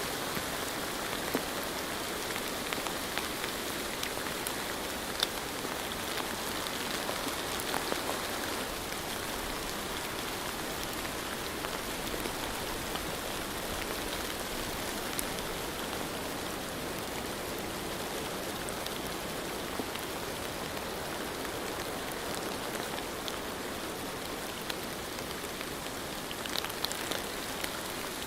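Steady rain falling, with scattered individual drops ticking against a surface.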